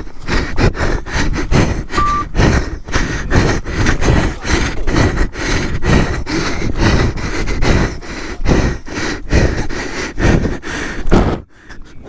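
Off-road 4x4's engine running under irregular knocks and rattles, with one short beep about two seconds in.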